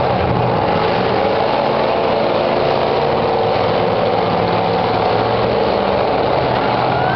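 Demolition derby car engines running together in a steady, loud drone.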